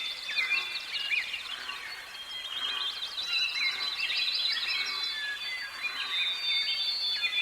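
Several birds singing together, a dense chorus of overlapping chirps, trills and whistled notes, with a few steady high tones held for a second or two.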